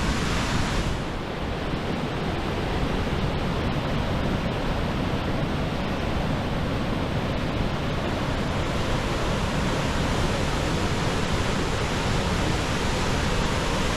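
Athabasca Falls pouring and crashing in a steady, full rush of white noise.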